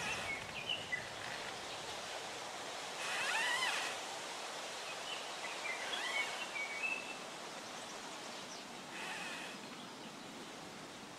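Outdoor ambience: a steady background hiss with a few short bird calls, near the start, around three to four seconds in, and again around six to seven seconds in.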